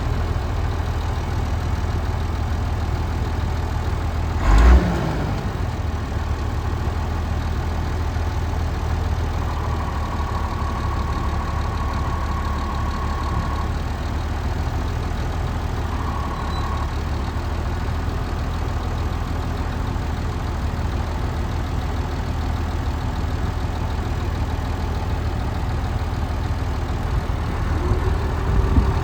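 Massey Ferguson 3545 four-wheel-drive tractor's diesel engine idling steadily, with a single brief thump about four and a half seconds in. Near the end the engine note steps up and gets louder.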